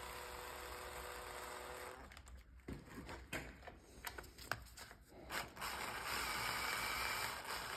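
Ratchet running down the housing bolts of a 7-speed S-tronic gearbox, tightened in a crosswise order. There is a steady run at the start, a series of clicks and knocks in the middle as it moves between bolts, and another run near the end.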